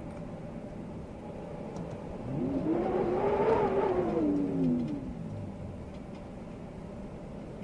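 Steady wind noise, with a motor vehicle passing about two seconds in. Its engine note rises and then falls over about three seconds and is loudest in the middle.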